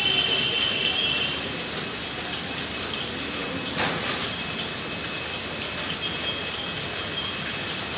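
Indian Railways express passenger coaches rolling past along the platform in heavy rain, with a high wheel squeal in the first second and a single short knock about four seconds in, over steady rain and rolling noise.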